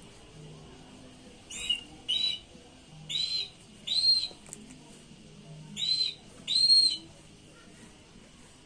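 A bird calling: six short, high, arched calls in three pairs.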